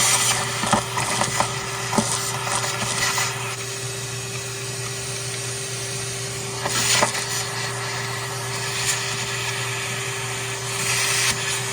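Steady machine hum with an even hiss, over scattered light clicks and knocks of small parts being handled.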